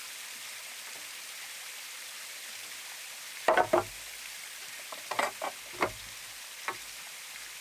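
A run of sharp knocks over a steady stream-like hiss: two close together about halfway in, three or four more over the next two seconds, and a last single knock near the end.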